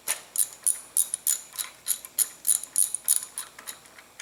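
Hand socket ratchet clicking in short back-and-forth strokes as bolts are tightened, in a quick, uneven run of sharp clicks.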